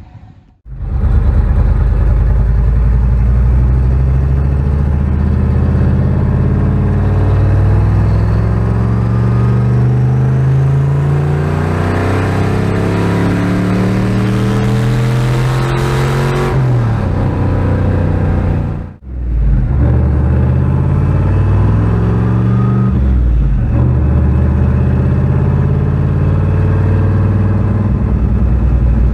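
Turbocharged truck engine pulling hard under load, its pitch climbing steadily for about fifteen seconds with a faint rising whine above it, then dropping as the throttle comes off. The sound cuts out for a moment about nineteen seconds in, and then the engine runs on more steadily with a couple of brief dips.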